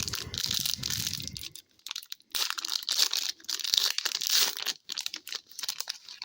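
Hockey card pack wrapper being torn open and handled, crinkling and tearing in crackly bursts with a short lull about two seconds in.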